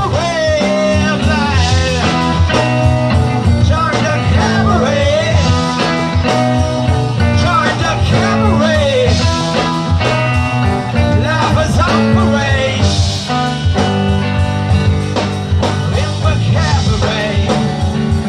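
A live rock band playing, with drums, a steady bass line and a lead line that bends and slides in pitch.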